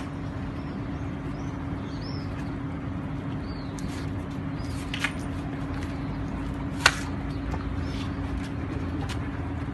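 Steady low mechanical hum with a constant drone, with faint short high chirps in the first few seconds and two sharp clicks about five and seven seconds in.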